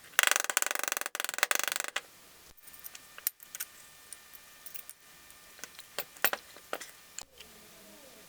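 Hand tools working on engine parts: a run of rapid metallic clicking lasting nearly two seconds, then scattered single clicks and taps.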